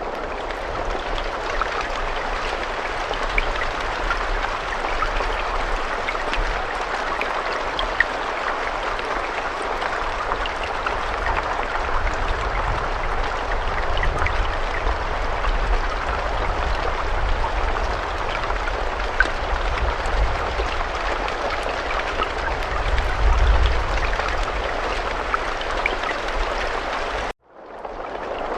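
Steady heavy rain: a dense even hiss with scattered sharper drop taps and a low rumble underneath. About 27 seconds in it cuts off abruptly to silence, then fades back in, like the seam of a looped recording.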